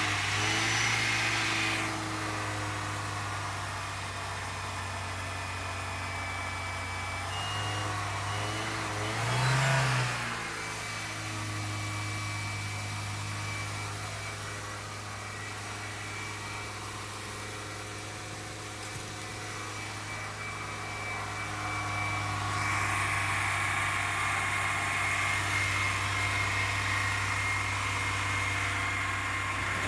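Volkswagen car engine running steadily on wood gas from a gasifier, with a brief rise in revs about ten seconds in.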